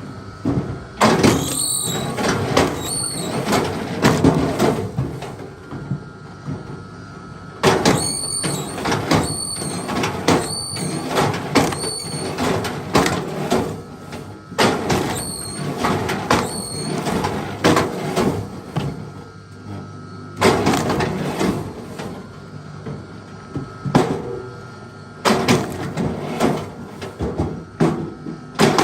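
Runs of heavy blows striking a log, several followed by a short high metallic ring, in bursts of a few strokes separated by pauses.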